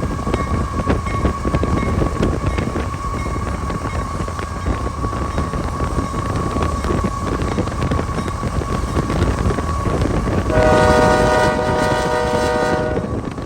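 A train running with a steady low rumble. Near the end a locomotive air horn sounds one long chord of several notes, lasting about two and a half seconds.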